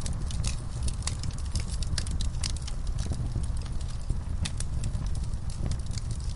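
Wood fire burning in a fireplace, with many sharp, irregular pops and snaps over a steady low rumble of the flames.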